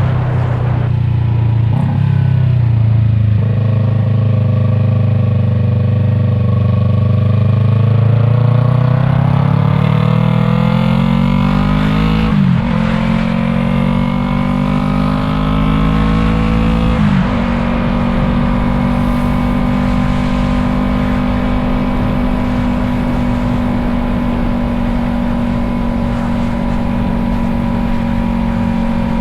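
Yamaha MT-03 parallel-twin engine with an Arashi aftermarket exhaust, heard from on board: it pulls up through the revs, upshifts twice with a short dip in pitch each time, then settles into a steady cruise.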